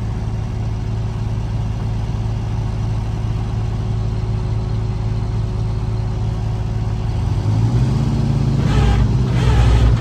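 Front-end loader's diesel engine running steadily, then revving up about seven and a half seconds in, with a higher whine joining near the end.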